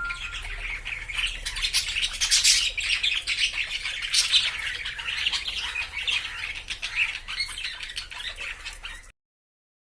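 Budgerigars chattering and squawking: a dense, busy run of short calls that cuts off abruptly near the end.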